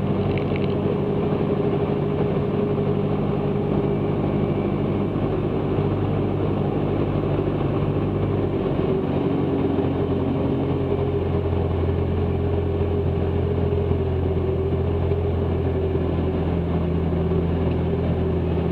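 Cessna 162 Skycatcher's Continental O-200 four-cylinder engine and propeller running steadily at constant power in flight, heard inside the cockpit.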